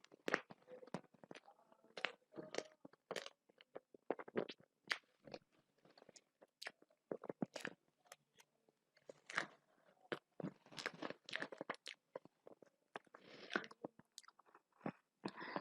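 Close-up chewing of food in a mouth: many short, irregular wet smacks and clicks, quiet overall.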